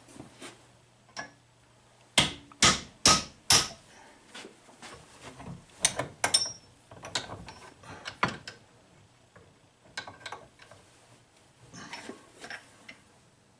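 Metal hand tools and a steel Allen bit knocking and clicking during bench work: four loud sharp knocks in quick succession about two seconds in, then lighter, scattered clicks and taps.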